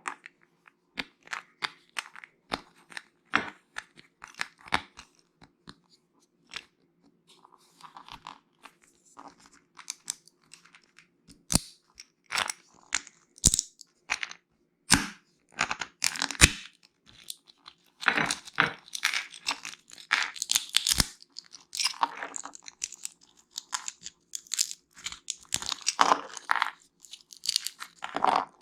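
Close-miked crunching and chewing of nuts and seeds: scattered sharp cracks at first, becoming dense bursts of crunching in the second half.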